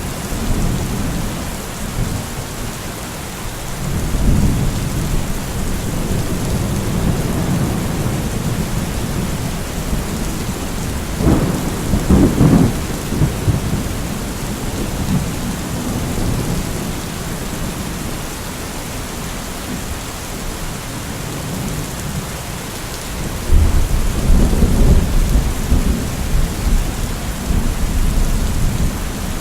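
Steady rain falling in a thunderstorm, with thunder rumbling low in the background. About twelve seconds in there is a sharper, louder thunderclap, and a long, heavy rumble builds near the end.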